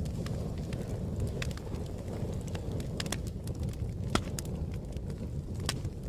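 Fire crackling: a steady low rumble of burning with scattered sharp pops and snaps, the loudest about four seconds in.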